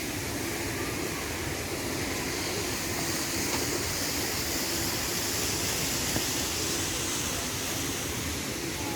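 Steady rush of running water, an even hiss with a low rumble underneath.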